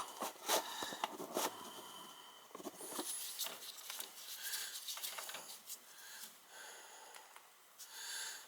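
Soft irregular clicks, scratches and rustles of hands working at the wiring of a gas furnace's control board, with a few brief squeaks.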